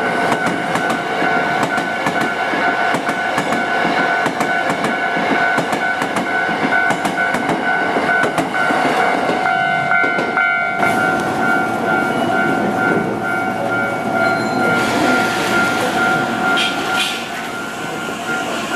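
Hankyu train passing over a level crossing, its wheels clacking rapidly over the rail joints for about the first eleven seconds, while the crossing's warning bell rings steadily. After the clacking stops, the train noise carries on more smoothly.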